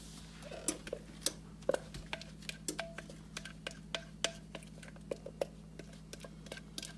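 Thick coconut cream pie filling being poured from a bowl into a pie crust, with a utensil scraping and tapping against the bowl: a run of light, irregular clinks and taps, a few of them briefly ringing.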